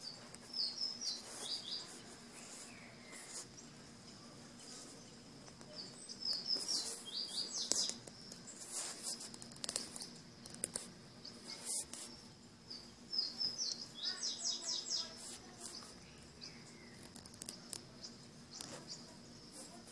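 A small bird chirping: quick runs of short high notes, repeated every few seconds. A faint steady high tone runs underneath, with a few soft clicks.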